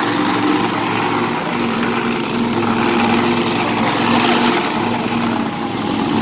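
Monster truck engines running steadily.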